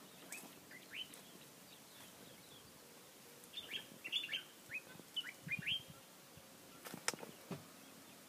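Birds chirping in short, quick, high notes: a few about a second in, then a busy run of them from about three and a half to six seconds in. A sharp click comes about seven seconds in.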